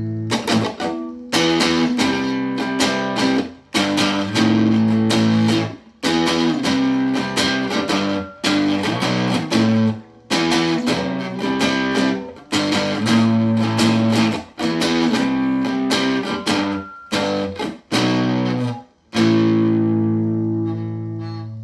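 Guitar plugged into effects, strumming chords in a choppy rhythm with sudden stops, then a last chord left to ring out and fade near the end.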